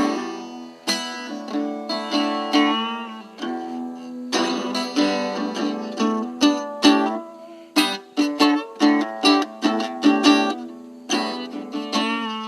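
Guitar played solo: a run of plucked notes and chords, some notes bending in pitch.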